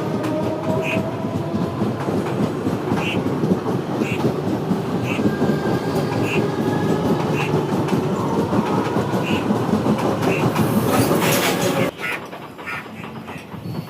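Indian Railways freight train wagons rolling past, a loud steady rumble with the clickety-clack of wheels over rail joints. The sound cuts off suddenly near the end and gives way to something much quieter.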